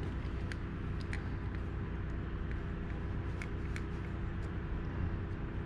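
Steady low background hum, with scattered light clicks of small chainsaw parts being handled on the bench.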